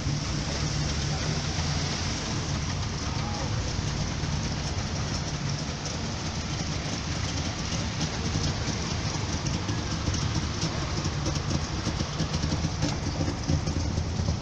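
Engines of vintage cars and motorcycles idling together, a steady low running note, with rougher, uneven peaks in the last few seconds.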